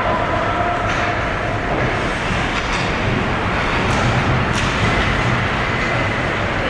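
Ice hockey game in a rink: a steady rumble of skates on the ice, with a few sharp clacks of sticks and puck and faint calls in the background.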